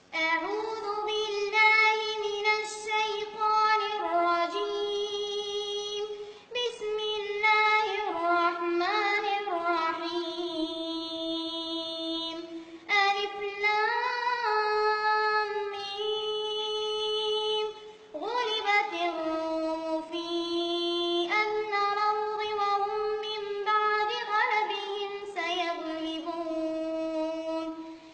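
A child's high voice reciting the Quran in melodic tarteel. Long notes are held and ornamented with turns, in phrases broken by brief pauses for breath about 6, 13 and 18 seconds in.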